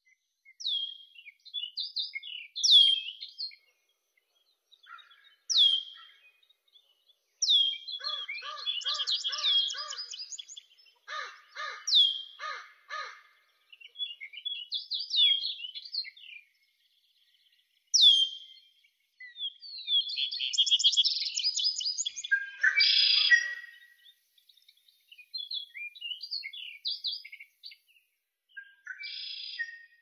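Songbirds singing and calling: a run of sharp, downward-sliding high chirps and short trills with pauses between phrases, and twice in the middle a lower, rapidly pulsed call.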